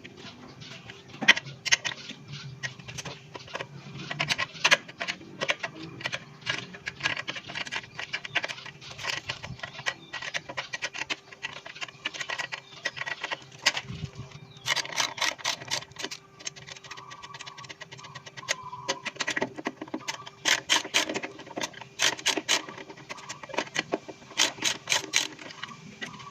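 Irregular metal clicks and clinks of hand tools and small engine parts being handled while a small engine's carburetor is taken apart, coming in quick clusters at times, over a faint steady hum.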